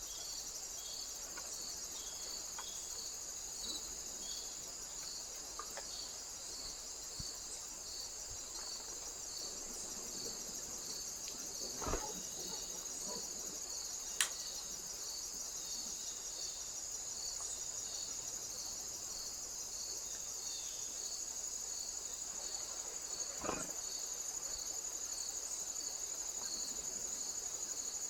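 Crickets stridulating: a steady high trill, with a second insect's chirp repeating at an even pace just below it. A few short sharp clicks stand out near the middle.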